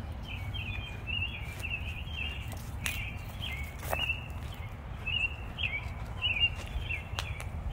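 A songbird chirping in short repeated calls, about two a second, over a steady low rumble. Footsteps on grass and dirt add a few sharp clicks.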